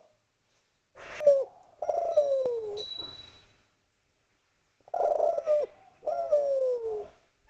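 Spotted dove (derkuku) cooing. It gives two calls about four seconds apart, each a short note followed by a longer coo that falls in pitch.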